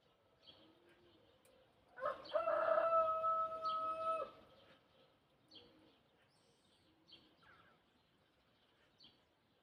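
A rooster crowing once, a single held call of about two seconds, with small birds chirping faintly around it.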